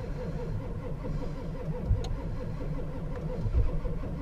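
Ford 7.3-litre V8 diesel cranking on its starter, turning over unevenly with a few heavier pulses but not catching. The engine is cold-soaked after sitting a month in freezing weather, and the weak batteries are on a charger.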